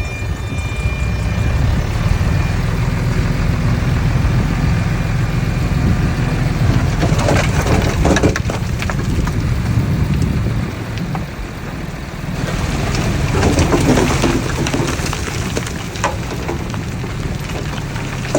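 Diesel engine of earthmoving machinery running steadily under load, with crunching and crackling of soil and stones being pushed or dumped, louder twice in the middle.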